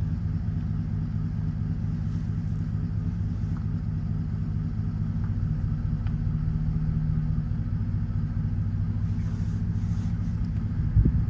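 A vehicle engine running steadily at low speed, a constant low hum, with a brief knock near the end.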